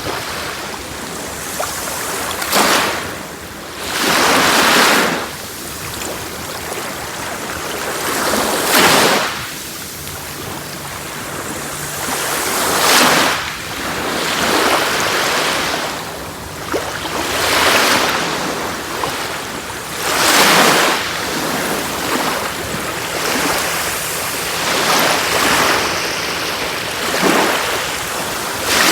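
Sea waves breaking on a shore: a steady wash of surf with a louder surge every two to five seconds, about eight in all.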